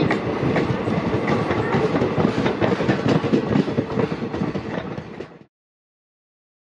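An electric-locomotive-hauled train running on the track, its wheels clattering in a rapid, uneven stream of clicks over the rail joints. The sound fades and cuts to silence a little over five seconds in.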